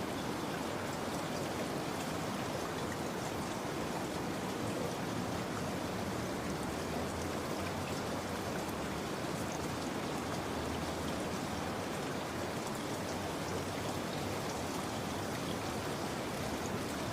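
Steady rain ambience: an even patter of falling rain.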